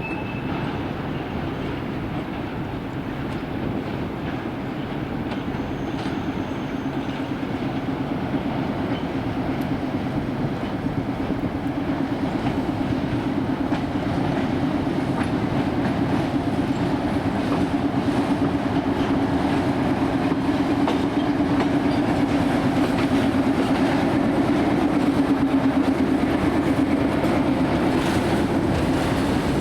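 Train running on the tracks, wheels clicking over the rail joints, with a steady hum that slowly grows louder as it comes closer.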